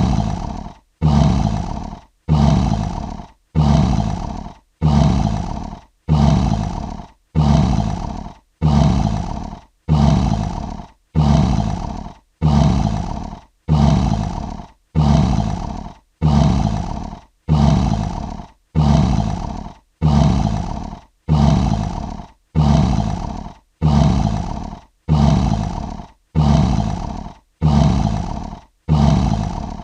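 A lion roar sound effect: the same short roar repeated about once a second, each one starting loud and fading out before a brief silence.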